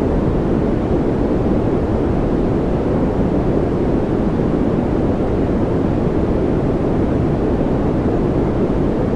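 Steady, unchanging noise from a white-noise relaxation track: an even, deep rush weighted toward low pitches, with little hiss on top.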